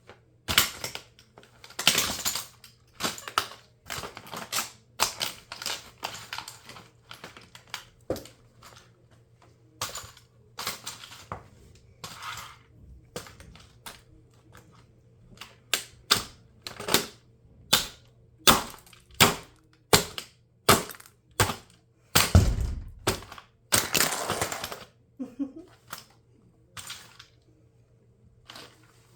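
Plastic body of a toy RC car cracking and snapping under high heels: irregular sharp cracks, some in quick runs, with one heavier low thud a little past two-thirds through.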